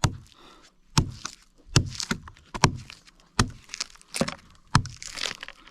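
A blade chopping into wood, about eight sharp strikes at an uneven pace, each with a dull thud, cutting the wood open to get at the wood worms inside.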